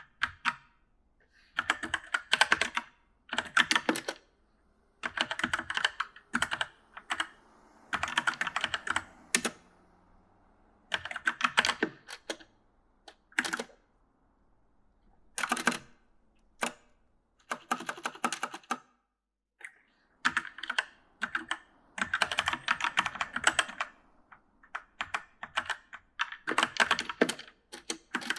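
Typing on an E-Element (e元素) mechanical gaming keyboard: rapid key clicks in bursts of one to two seconds, broken by short pauses.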